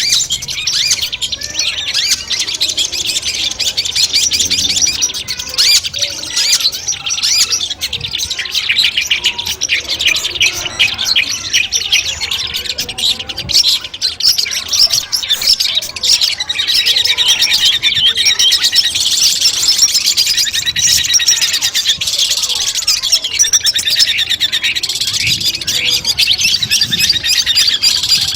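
Long-tailed shrikes (cendet) singing: a fast, unbroken stream of high chirps and chattering trills.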